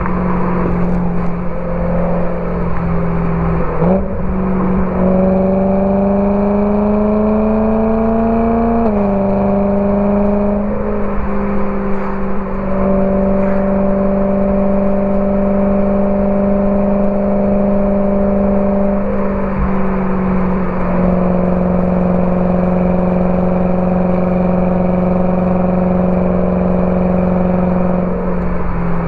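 BMW E92 M3's V8 through a Borla ATAK exhaust, pulling at moderate, steady throttle with a drone. The pitch climbs slowly and then steps down or up sharply at gear changes several times.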